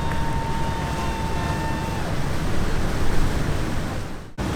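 Boat motors running under way, mixed with the rush of water and wind. A faint steady tone sounds through the first couple of seconds, and the sound cuts out abruptly for an instant near the end.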